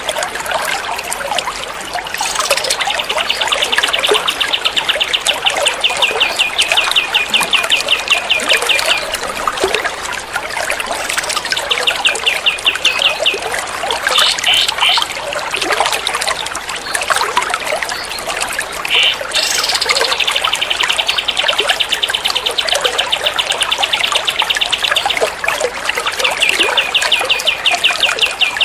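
Songbird masteran track: a small bird sings long, fast trills of evenly repeated high notes, in runs lasting a few seconds with short breaks, over a steady trickling-water sound.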